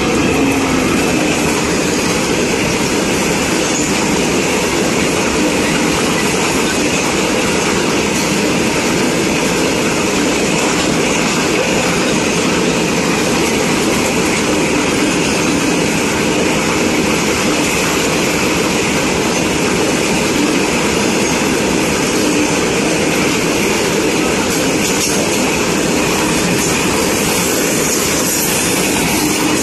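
Long goods train of covered wagons passing close by at speed behind a WDG6G diesel locomotive: a loud, steady rumble of wagon wheels on the rails.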